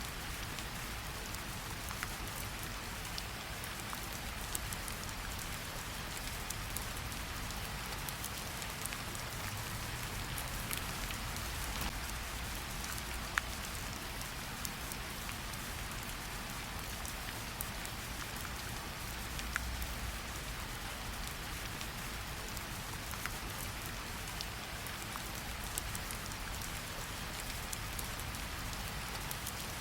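Steady light rain pattering on tree leaves, with scattered single drops dripping off the leaves, a few landing louder than the rest.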